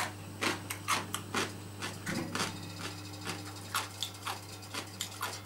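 Crisp pickled daikon being chewed: an irregular string of short crunches, two to four a second, with the odd click of wooden chopsticks against the plate.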